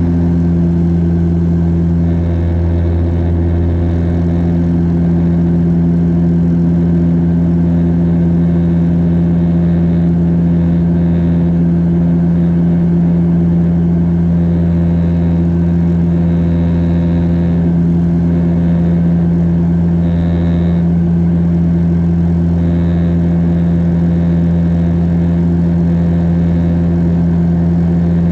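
Steady drone of a Bombardier DHC-8 Q400's turboprop engines and propellers heard inside the cabin in flight: a constant low hum with a strong steady tone over a rushing hiss.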